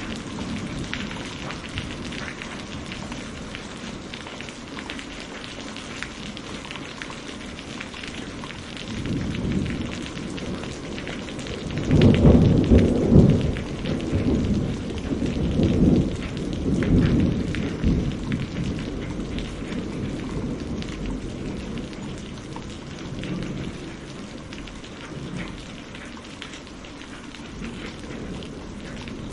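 Steady rain falling, with a roll of thunder about twelve seconds in that rumbles loudest for a couple of seconds and then rolls away over the next few.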